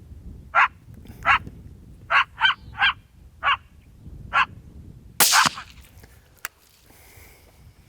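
Short, sharp canine barks and yips, seven of them at uneven spacing, then a single rifle shot about five seconds in, followed by a sharp click about a second later.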